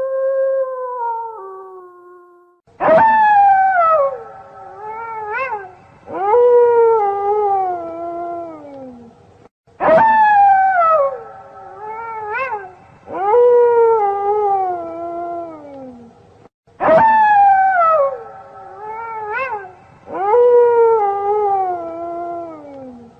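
A wolf howling: long howls that start high and slide down in pitch, with a short rising yelp between them. The same phrase repeats about every seven seconds.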